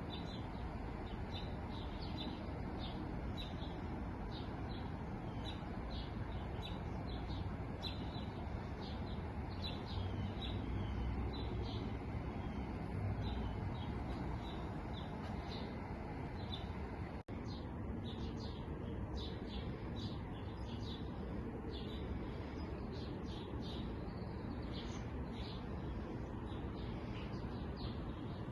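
A chorus of small songbirds chirping, many short high notes repeating throughout over a steady background hiss. The sound cuts out for an instant about seventeen seconds in.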